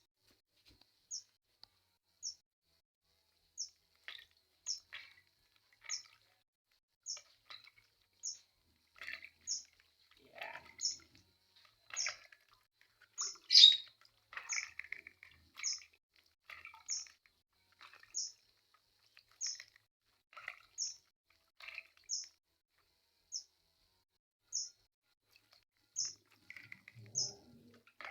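A bird chirping: a short high chirp repeats evenly about once a second, with other chirps and calls in between, the loudest of them about halfway through.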